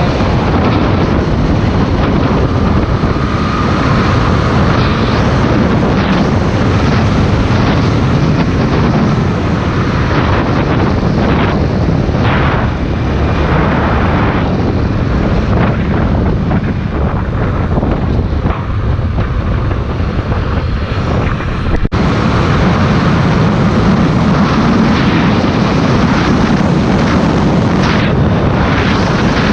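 Honda XR 250 Tornado's single-cylinder engine running while the motorcycle is ridden, heavily mixed with wind rushing over the microphone.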